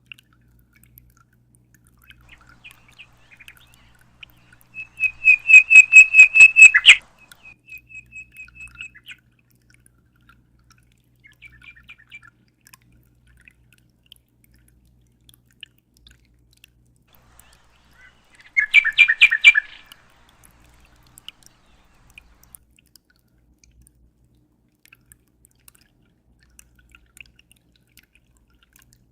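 Bird song: a loud rapid trill of repeated whistled notes about five seconds in, followed by softer repeated notes, then a second short trill about nineteen seconds in. A faint low hum runs underneath.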